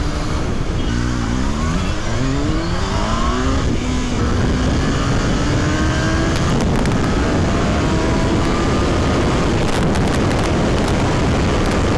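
Suzuki Hayabusa's inline-four engine pulling up through the gears under hard acceleration: several short rises in pitch in the first few seconds, then one longer, slower climb. After that, wind rush covers the engine.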